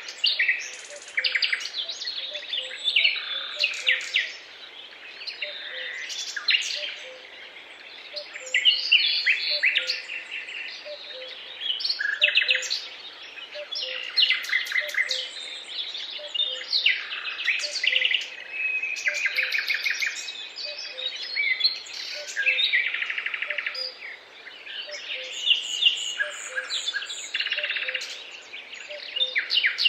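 Several songbirds singing at once, with overlapping chirps, trills and fast runs of notes. A faint, short low note repeats steadily underneath.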